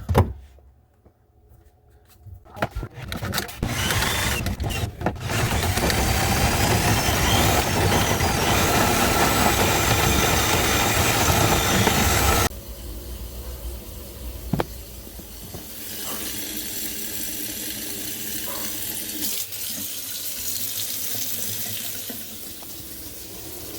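Kitchen faucet running hard into the sink and down the drain. About halfway through the flow drops suddenly and keeps running more quietly.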